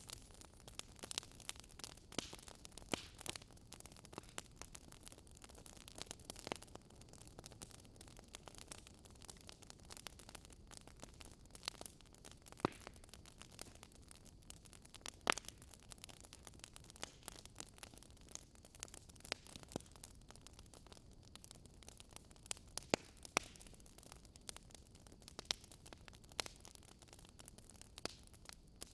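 Wood fire crackling: a soft hiss of burning with irregular sharp pops and snaps, a few each second, and now and then a louder single pop.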